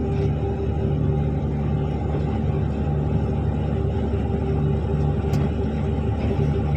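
Diesel engine of an articulated dump truck running with a steady, unbroken low drone.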